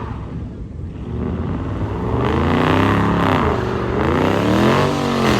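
Car engine revving hard, its pitch rising and falling several times in quick swells.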